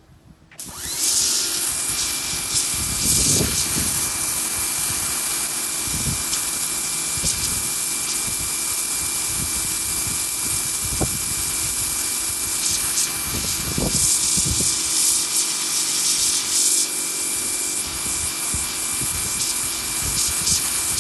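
Gas pressure washer spraying through a 0-degree nozzle, the water jet hissing loudly and steadily over the running machine. It starts suddenly about half a second in, with a thin steady whine throughout and irregular low thuds as the jet hits a surface.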